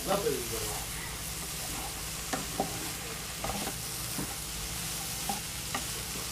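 Water-soaked soya chunks sizzling in a spoonful of oil in a nonstick kadai while a slotted spatula stirs them, clicking against the pan now and then. The steady sizzle is the soaked-in water cooking off in the heat.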